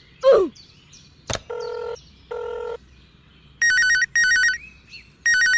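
Electronic telephone ring, a warbling trill in short bursts, two pairs of rings in the second half. It is preceded by a quick falling whistle, a click and two steady beeps.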